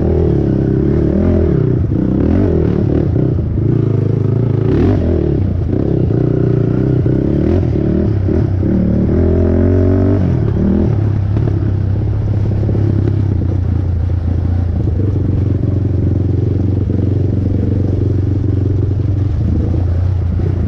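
Honda TRX450R ATV's single-cylinder four-stroke engine revving up and down, then running at a steady pitch from about halfway through.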